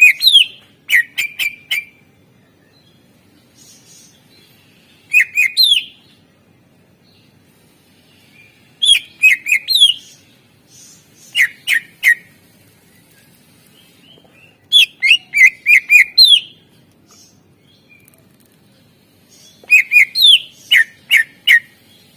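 Green leafbird (cucak ijo) singing in short, loud phrases of sharp whistled notes and quick up-and-down sweeps. A phrase comes every few seconds, seven in all. It is a song filled with calls borrowed from other birds.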